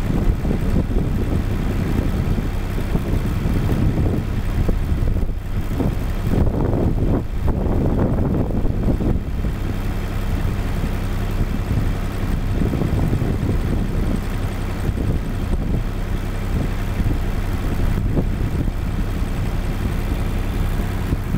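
Engine idling steadily with a low hum, with irregular gusts of wind rumbling on the microphone.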